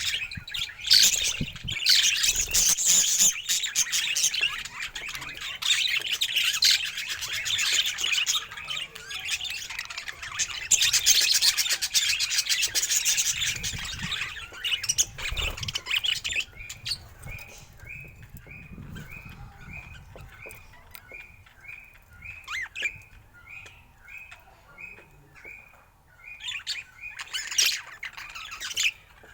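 Budgerigar warbling and chattering, a busy run of chirps and squawks. About halfway through it gives way to a string of short, evenly repeated chirps, about two a second, before the chatter picks up again near the end.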